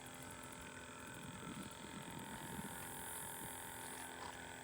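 Faint steady hum, with a few soft, irregular low sounds between about one and three seconds in.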